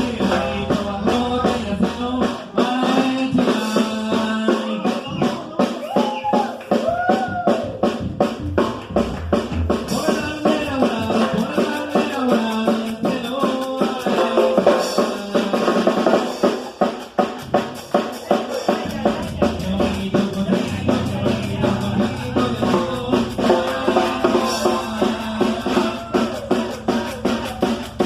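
Norteño band music: an accordion-led melody over a steady drum-kit beat, with a bass line coming in strongly about two-thirds of the way through.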